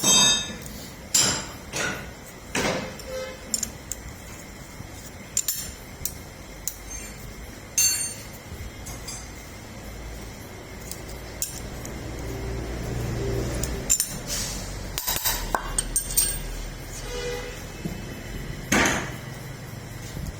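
Irregular metal clinks and knocks from hand tools and metal parts being handled during repair work on a tractor, with a loud knock near the start and another near the end.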